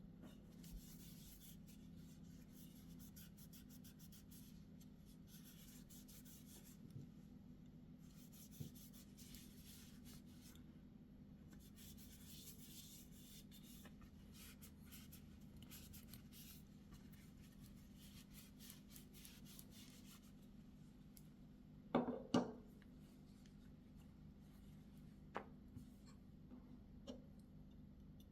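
Soft, intermittent rubbing and scratching of hands handling a folding knife and its packaging, then a few sharp clicks, the loudest a quick pair near the end.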